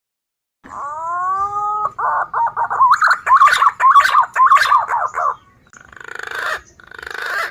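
Green pigeon (punai) calls from a lure recording. A rising whistle is followed by a quick run of warbling whistled notes, then two short harsh, rasping phrases near the end.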